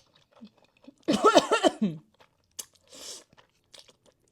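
Close-miked mouth sounds of a person eating: scattered chewing clicks and a short slurp-like hiss. About a second in there is a loud, brief wordless voiced sound with a falling pitch.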